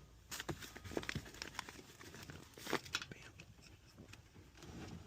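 Scattered clicks, taps and crinkling from hands handling wiring and parts inside a heat pump's cabinet, with the sharpest clicks about half a second in, at one second and near three seconds.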